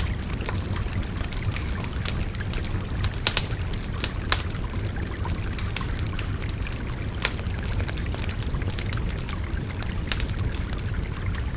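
Wood fire crackling, with scattered sharp pops, over the steady rush of a babbling river. The loudest pops come a few seconds in.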